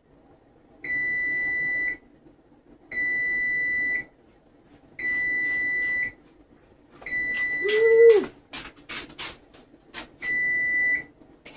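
Kitchen timer beeping to say the pizza's baking time is up: a steady high beep about a second long, repeated five times roughly every two seconds. Around the fourth beep a louder, brief low sound that rises and falls cuts in, followed by a run of clicks and knocks.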